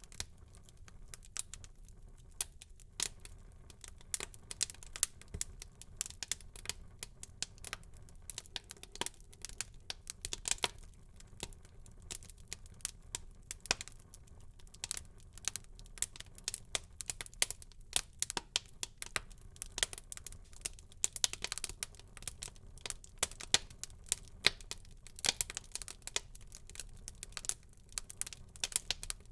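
Wood fire in a fireplace crackling, with many sharp irregular pops and snaps over a faint low hiss.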